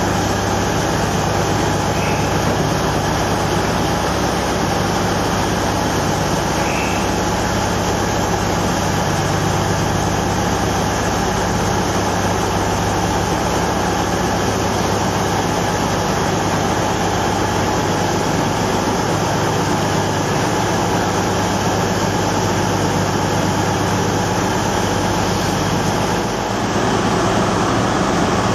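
Freight train of Hanson bogie hopper wagons rolling steadily past, a continuous rumble of steel wheels on rail.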